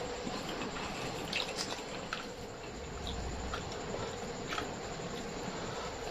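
Close-miked eating sounds: wet mouth clicks and smacks of someone chewing food, scattered irregularly over a steady background hiss.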